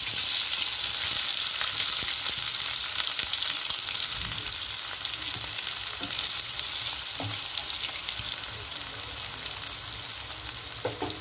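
Chopped onion sizzling as it fries in hot oil and ghee in a kadai. The steady hiss eases slowly as the onion settles into the fat.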